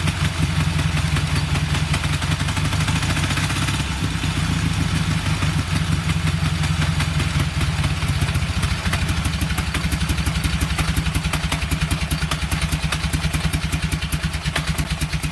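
Dnepr-12 sidecar motorcycle's flat-twin engine idling steadily, its even firing beats growing more distinct in the second half.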